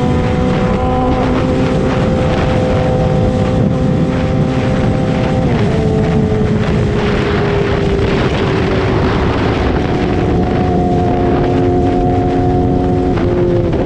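Yamaha YZF-R6 inline-four sport-bike engine running at steady cruising revs under heavy wind rush. The engine note steps down in pitch about five and a half seconds in and again near the end.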